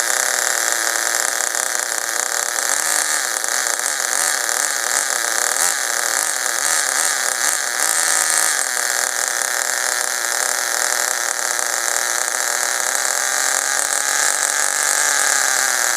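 Vertex .18 nitro RC engine idling steadily, then wavering and sagging in pitch as it starves of fuel with its fuel line pinched. It takes about 6 seconds to die, a sign that the low-speed needle is set rich.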